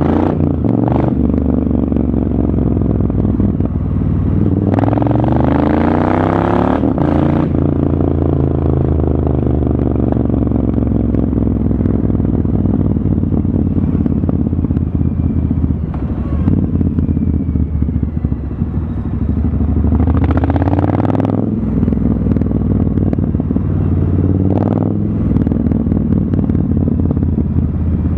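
Triumph Street Scrambler's parallel-twin engine through an aftermarket Zard exhaust, rumbling at low revs while filtering through slow traffic. It revs up twice, about five seconds in and again around twenty seconds, with a few sharp exhaust pops.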